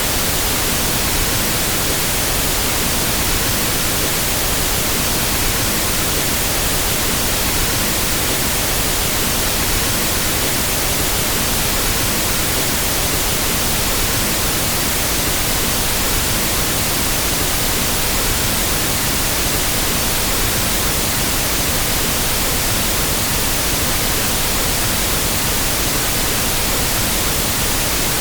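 Pink noise test signal for equalizing audio equipment: a steady, unbroken hiss that spreads evenly across all pitches, with no change in level.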